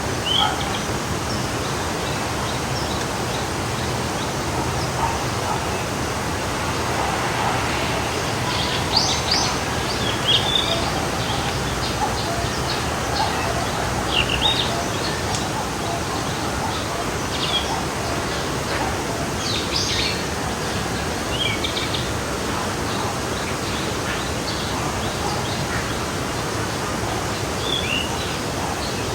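Forest stream flowing steadily, with several birds chirping and calling over it in short scattered phrases, busiest in the middle of the stretch.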